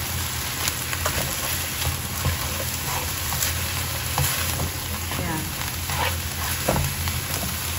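Ground meat and diced onions sizzling in a non-stick frying pan as a spatula stirs and scrapes through them, with scattered short clicks of the spatula against the pan. A steady low hum runs underneath.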